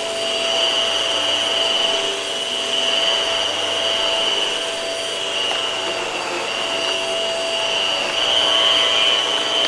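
Hart vacuum cleaner running steadily, with a high whine over the rush of air that swells and eases slightly.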